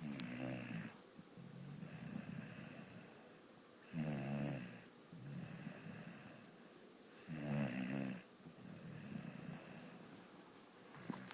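A dog snoring in a steady breathing rhythm. Three loud pitched snores come about every three and a half seconds, each followed by a softer, longer breath.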